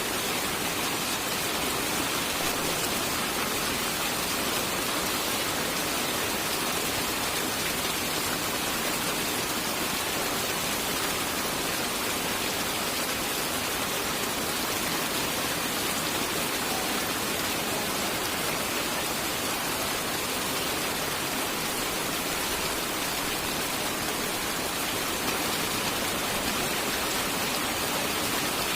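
Steady rain falling, an even hiss without thunderclaps.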